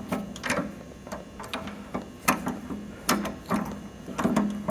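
Irregular sharp clicks and clinks of metal hand tools against the forklift's hydraulic valve fittings, a few a second.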